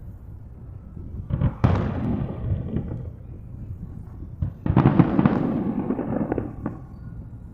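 Aerial fireworks shells bursting: a sharp bang about a second and a half in and another heavy burst near five seconds, each trailing off in a long echoing rumble, with a few sharp crackles after the second.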